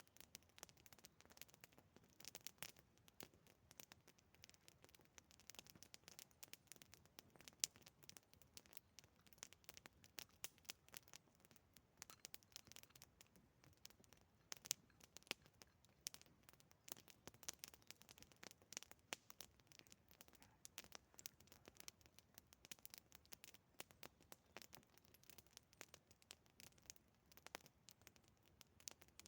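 Wood campfire crackling faintly, with irregular sharp snaps several times a second.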